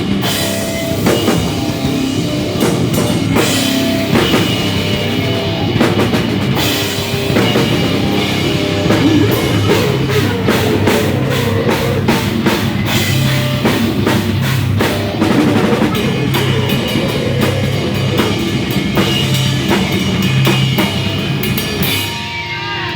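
A live rock band playing loudly, with a drum kit pounding out dense, fast hits under bass and guitar. The band stops abruptly just before the end.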